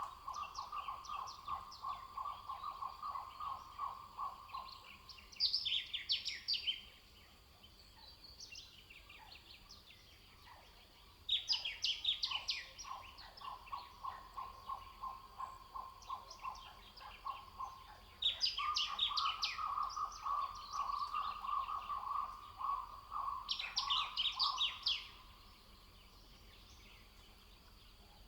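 Wild birds singing outdoors. Short bursts of rapid high notes come every few seconds, and three long, lower rapid trills of about five seconds each start near the beginning, about twelve seconds in and about eighteen seconds in.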